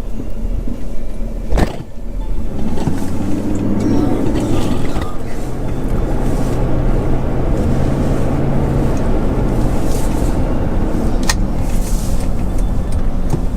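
Steady low rumble of a car's engine and road noise heard from inside the moving car, with a sharp click a couple of seconds in and another near the end.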